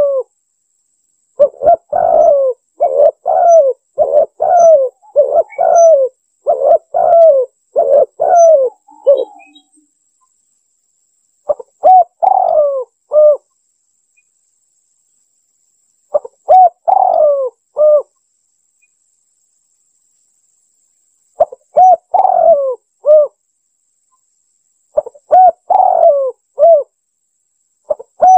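Spotted dove (tekukur) cooing. A quick run of repeated coo phrases fills the first ten seconds, then short phrases of a few notes come every four or five seconds, with quiet gaps between. It is a lure-call recording used to draw in doves.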